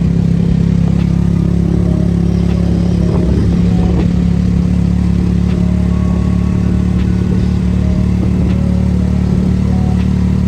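A motor engine running steadily at an even pitch, with faint clicks over it.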